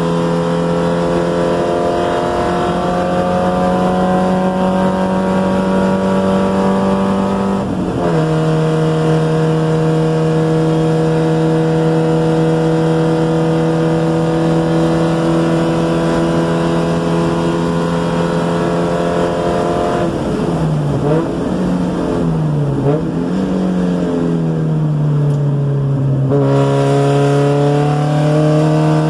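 A 1990 Mazda Miata's 1.6-litre four-cylinder engine at full throttle, heard from inside the cabin. About eight seconds in there is a drop in pitch at an upshift, then a long, slowly rising pull. From about twenty seconds in, the revs dip and rise several times as the car downshifts under braking for a corner, then the engine pulls again from lower revs near the end.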